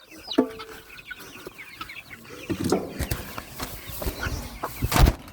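Chickens clucking, with one short squawk just after the start. From about halfway on, a lot of scuffling and knocking joins in, with a louder thump near the end.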